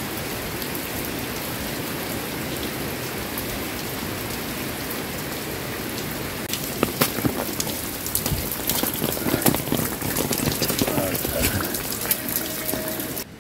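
Heavy rain falling steadily on thatched roofs and wet stone paths. From about halfway through, sharp drips and splashes close by stand out over the steady rain.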